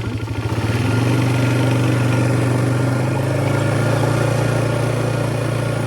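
A vehicle engine running steadily, picking up slightly about a second in and then holding an even low hum.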